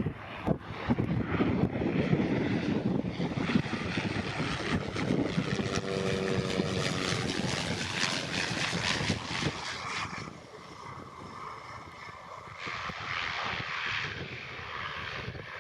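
Propeller aircraft's engine running, with wind buffeting the microphone; the engine sound drops quieter about ten seconds in.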